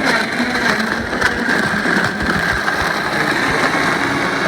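Vitamix blender motor running steadily at high speed, blending a fruit mixture.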